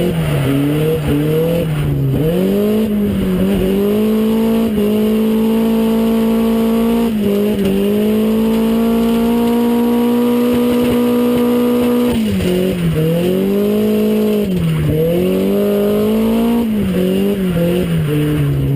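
Inside the cabin of an SR20-engined Toyota AE86 drift car: the engine revs up and down in quick stabs, then holds high revs steadily for about eight seconds through a long slide, and goes back to rapid lift-and-rev swings near the end. Tyres squeal under the slides.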